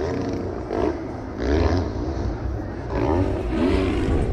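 450cc four-stroke motocross bike engines revving up and down in repeated surges, about five rises and falls in pitch, as the bikes run the track.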